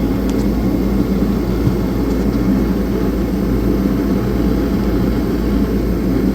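Shop heater running with a steady, loud drone and hum.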